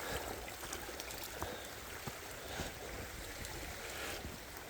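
Stream water running steadily over rocks, an even rushing with a few faint ticks.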